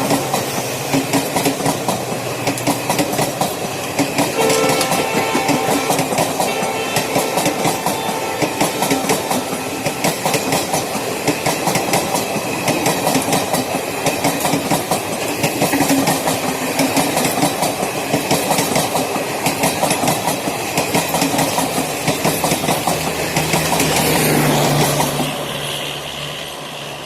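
Express passenger train passing at high speed, with fast, continuous wheel clatter over rail joints and the rumble of wheels on rail. The sound grows fainter near the end as the train moves away.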